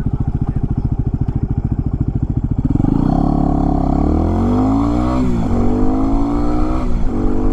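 Yamaha WR250R's 250 cc single-cylinder engine pulsing at low revs, then accelerating with a rising pitch and shifting up twice, about two-thirds in and near the end.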